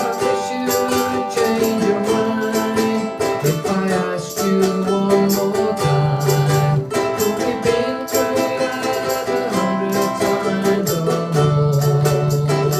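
A group of ukuleles strumming chords, with voices singing a slow melody over them.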